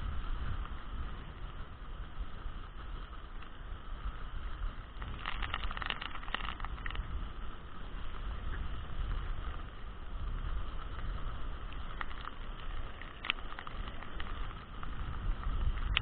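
Strong wind buffeting the microphone in heavy rain, a steady low rumble, with scattered sharp ticks and a brief harsher crackle about five seconds in.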